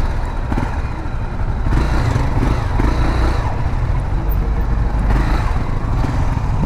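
Honda Sahara 300's single-cylinder engine running at low speed as the motorcycle filters between stopped cars, with a steady low rumble and surrounding car traffic.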